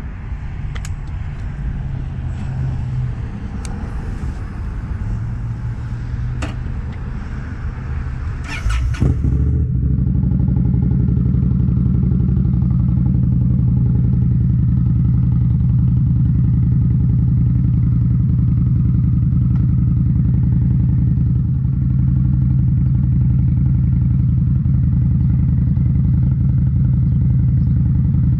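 2018 Indian Scout Bobber's V-twin engine running through Rinehart slip-on mufflers, with a few clicks early on. About nine seconds in there is a short noisy burst, after which the exhaust note is louder and holds a steady pitch.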